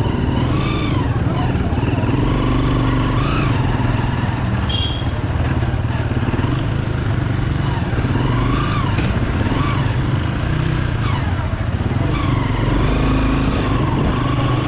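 Bajaj Pulsar 200 motorcycle's single-cylinder engine running steadily under way, with road and wind noise. Its pitch rises and falls a few times with the throttle.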